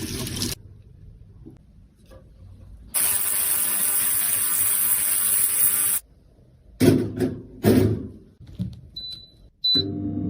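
A small electric motor runs steadily for about three seconds and cuts off abruptly, followed by a few short knocks and scrapes; a sustained ringing tone starts near the end.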